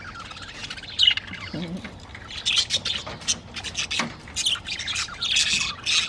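A flock of budgerigars chattering: rapid squawks and chirps overlapping, getting busier about halfway through.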